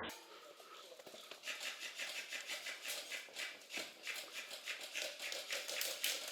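Quick footsteps with rustling gear as an airsoft player moves, a soft, even patter of about four to five steps a second.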